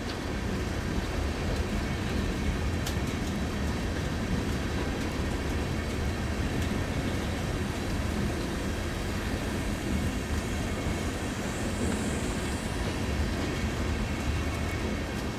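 Long freight train of empty ethanol tank cars rolling slowly past, a steady, even sound of steel wheels on the rails.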